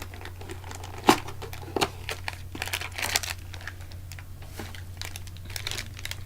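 Plastic snack-bar wrapper crinkling as it is handled and opened, in irregular crackles with a sharp snap about a second in.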